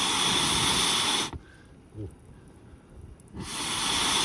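Butane mini gas torch hissing in two bursts of about two seconds each, with a short gap between; each swells up as the valve opens and cuts off abruptly.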